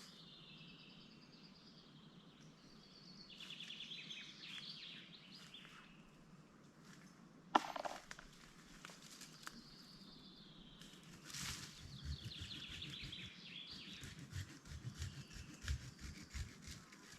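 Songbirds singing repeated trilled phrases. One sharp click comes a little under halfway, and irregular low thuds and rustling run through the second half.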